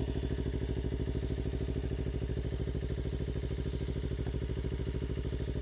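Kawasaki Ninja 300's parallel-twin engine running steadily at low revs with an even pulsing beat.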